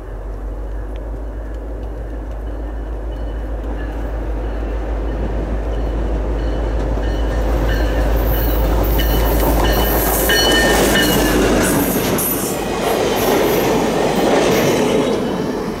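A diesel locomotive leading a two-car track geometry train approaches and passes close by. Its deep engine rumble grows steadily louder and drops away about twelve seconds in as the locomotive goes by. Then the geometry cars' wheels clatter and hiss on the rails as they pass.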